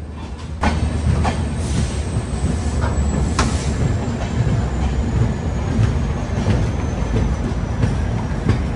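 Devagiri Express passenger train running, heard from an open coach doorway: a steady rumble of wheels on the track, with sharp clicks now and then as the wheels cross rail joints. It gets louder about half a second in.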